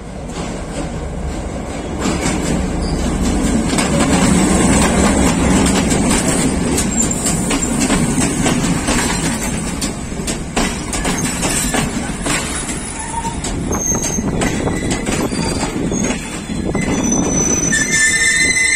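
A Class M2 diesel locomotive pulling in with an express train, its passenger carriages then rolling past close by with a steady rumble of wheels on the rails. Thin, high wheel squeals come in a few times, strongest near the end.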